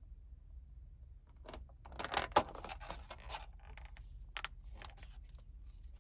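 Small handling sounds: a quiet run of rustles, scrapes and clicks, busiest about two to three seconds in, with a sharp click near the end, over a faint low hum.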